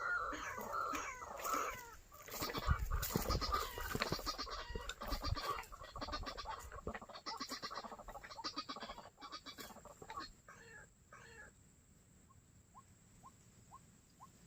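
White-breasted waterhen calls: a loud, harsh run of croaking calls that starts abruptly, mixed with heavy thumps and rustling from about two seconds in, dying away after about ten seconds. Near the end a faint, regular series of short rising chirps, about two or three a second.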